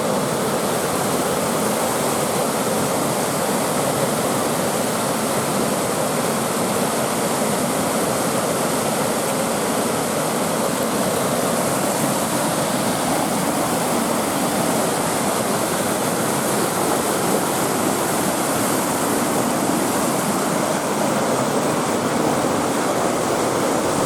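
Waterfall rushing steadily over rocks, an even unbroken roar of water.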